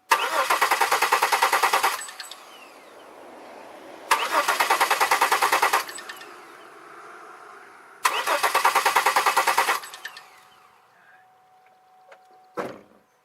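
2002 Chevy Malibu engine cranked on the starter three times, about two seconds each, with a fast even beat, never catching: a no-start with fuel pressure present, which the owner puts down to the fuel injectors not getting a signal to fire. A short sharp knock near the end.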